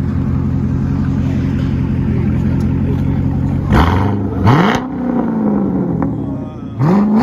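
2014 Chevrolet Corvette's 6.2-litre V8 with the rear mufflers deleted, idling steadily and then revved in three quick throttle blips: two a little past halfway and one near the end, each rising sharply in pitch and falling back.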